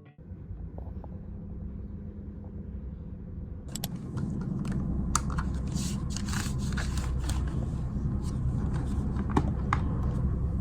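A steady low background rumble. About four seconds in it grows louder and is joined by rustling and scattered sharp clicks.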